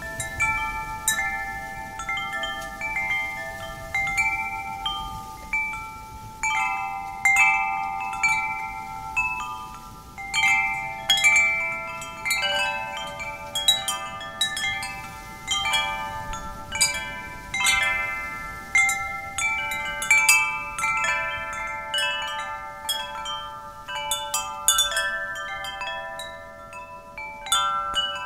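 Wind chimes struck irregularly by the wind, several metal tubes ringing at different pitches and overlapping as they decay, over a faint steady wind noise.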